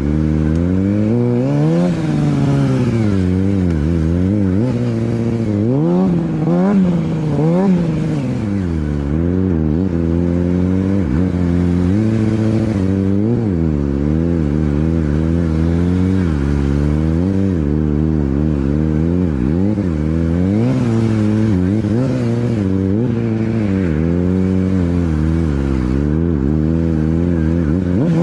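Motorcycle engine revving up and down over and over throughout, over a steady lower engine hum.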